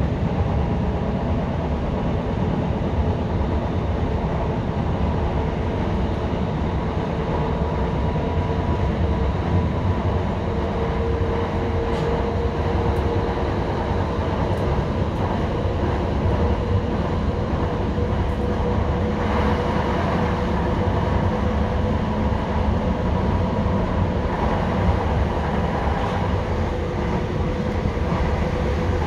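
Inside a moving electric passenger train: a steady rumble of wheels on rail with a steady hum, and a few faint clicks about twelve to eighteen seconds in.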